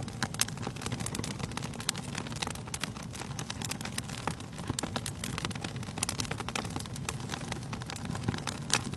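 Wood fire crackling in a fireplace: a dense, irregular run of sharp pops and snaps over a steady low rush, with one louder pop near the end.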